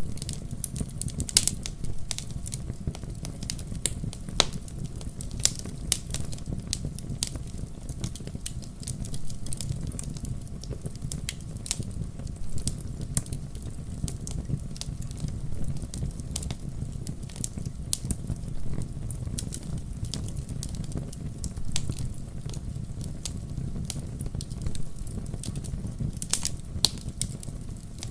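Wood fire crackling, with frequent sharp pops and snaps scattered irregularly over a steady low rumble.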